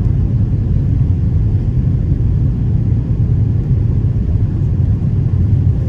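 Airbus A330 cabin noise in flight: a steady, low, even rumble of the engines and airflow heard from inside the cabin.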